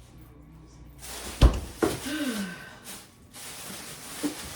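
Household knocks and thuds of things being handled and set down in a kitchen, with a sharp thump about a second and a half in, a lighter knock just after, and another thump at the very end.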